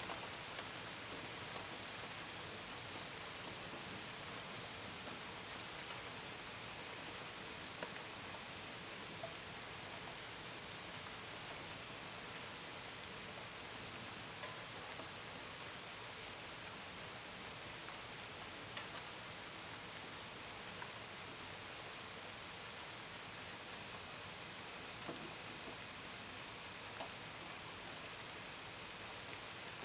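Steady gentle rain with scattered drops tapping, over a continuous high, pulsing trill of crickets.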